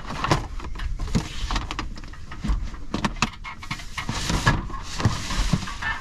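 Plastic storage tote being handled and slid into a shelf, scraping along with a series of knocks and clunks.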